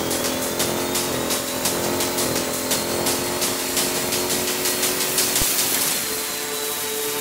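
Supercharged 6.2-litre Hemi V8 of a Jeep Grand Cherokee Trackhawk running hard at high, steady revs, with a faint high whine that rises slowly in pitch.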